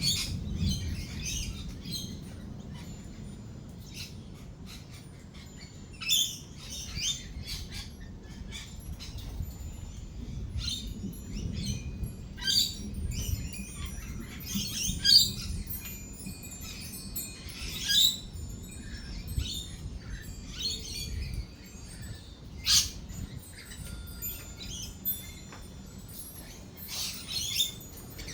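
Lorikeets chattering and screeching in short, sharp calls, several louder shrieks standing out, over a low rumble.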